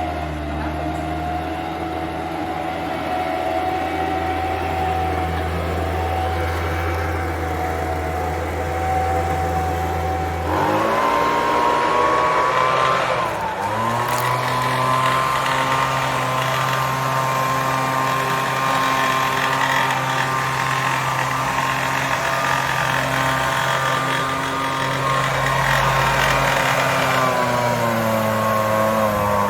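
Homelite UT08572 leaf blower's 30cc two-stroke engine running at a steady low speed, then throttled up about ten seconds in, with a brief dip shortly after, and held at high speed before easing off slightly near the end.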